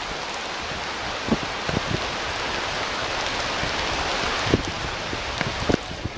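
Steady rain hiss with a few short, sharp knocks scattered through it.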